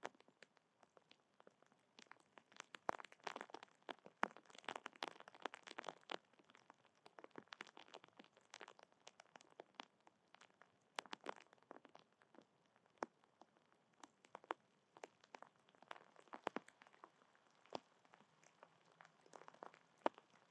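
Faint, irregular crunching and sharp clicks close to the microphone, bunched in dense runs around three to six seconds in and again near sixteen seconds: an animal at a feeder cracking and chewing seeds.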